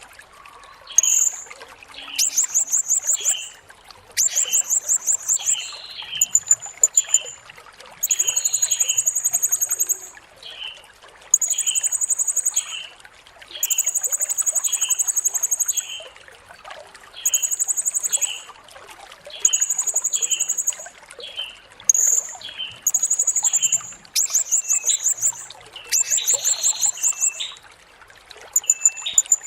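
Blue-crowned hanging parrot (serindit) song: bursts of very high, rapid trilling lasting one to two seconds, repeated with short gaps, mixed with shorter, lower chip notes about once a second.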